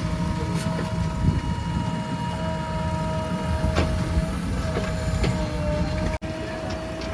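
Diesel engines of a backhoe loader and tractors running steadily, with a thin steady whine above the rumble and a few short sharp clanks.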